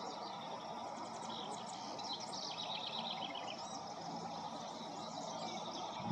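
Steady wind noise, with a small songbird chirping in quick high trills for a couple of seconds about a second in.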